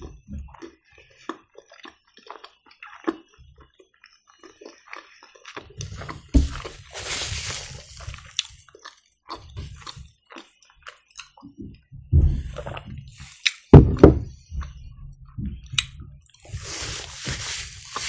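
Close-miked chewing of a soft cheese-filled dumpling (vareniki), with many small wet mouth clicks. A few louder thumps and two short stretches of rustling come in the second half.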